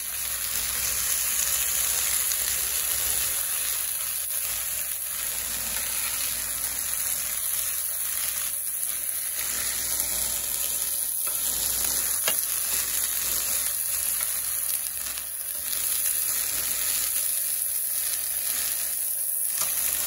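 Chicken strips sizzling steadily as they brown in oil in a nonstick frying pan, with a spatula turning them now and then.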